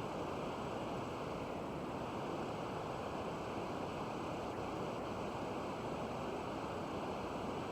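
Steady hiss of television static from an off-air channel after the station has signed off.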